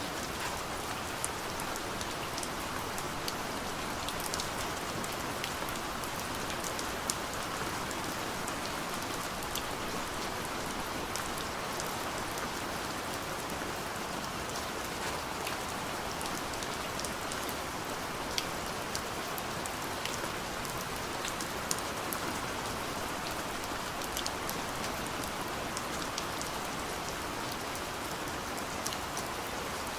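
Steady soft rain falling on a window, a continuous hiss with scattered individual drops tapping on the glass.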